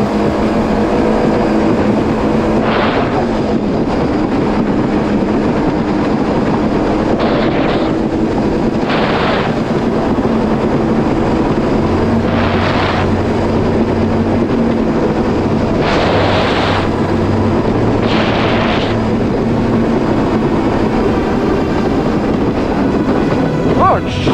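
Yamaha GP1800R SVHO's supercharged four-stroke engine running steadily under throttle as the jet ski rides on open water. Half a dozen short surges of rushing noise break in over the steady drone.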